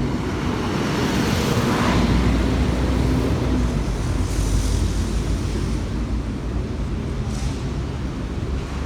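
Road traffic passing on a busy city avenue: a heavy vehicle's low engine rumble swells and passes about two seconds in. Brief high hisses come near the middle and again near the end.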